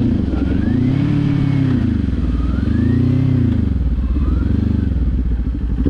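Kawasaki Z400 parallel-twin motorcycle engine under way, its pitch rising and falling three times as the throttle is rolled on and off, with wind rushing over the microphone.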